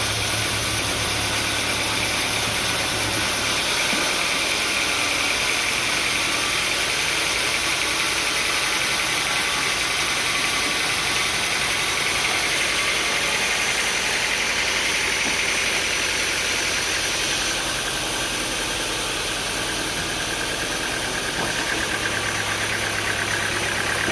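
A motor runs steadily without a break. Its low hum drops away about three and a half seconds in and comes back near the end.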